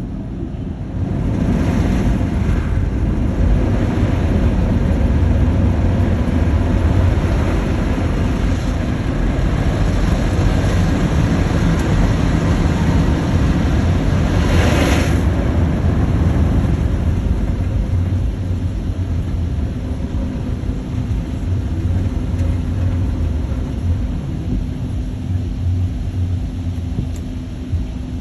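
Automatic car wash running: a steady low rumble under hissing water spray, with a louder rush of spray about two seconds in and again about halfway through.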